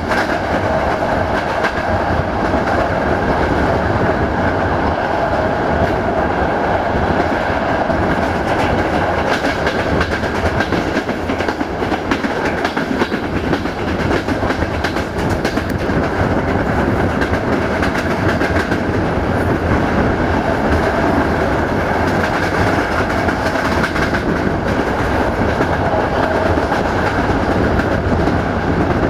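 Passenger train coach running at speed, with steady rolling noise from wheels on the rails and wind, heard from an open window, and light clicks of wheels passing over rail joints.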